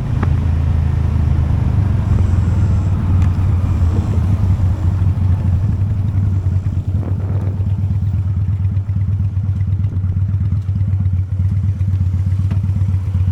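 Honda Steed V-twin motorcycle engine running under way, then dropping to a slow, evenly pulsing low rumble in the second half as the bike slows.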